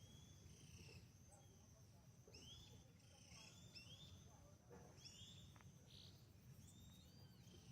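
Faint birdsong: many short, arched high chirps repeated throughout, over a low steady background rumble.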